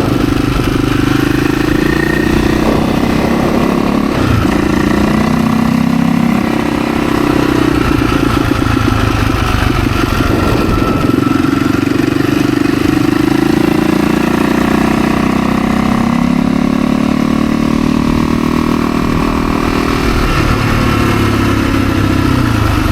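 Husaberg FE 350 dirt bike's single-cylinder four-stroke engine under way on the road, revving up through the gears with the pitch climbing and then dropping at each shift, several times over.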